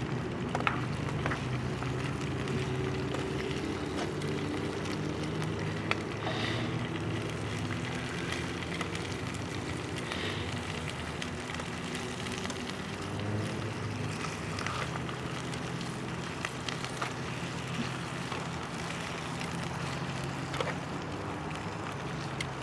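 Wood fire crackling, with scattered sharp pops and snaps, over a steady low hum.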